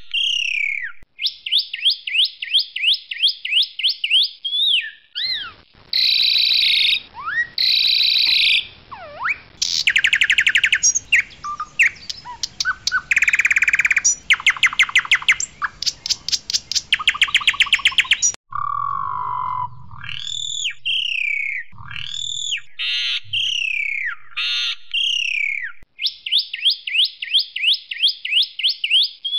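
Asian pied starling (jalak suren) singing a loud, varied song. Quick runs of repeated notes come first. A stretch of harsh, rattling phrases follows in the middle, then a series of falling whistled notes.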